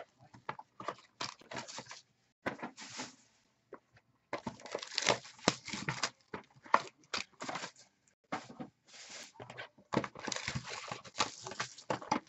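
Packaging handled by hand: irregular crinkling, rustling and tearing sounds in quick, uneven bursts with short pauses between them.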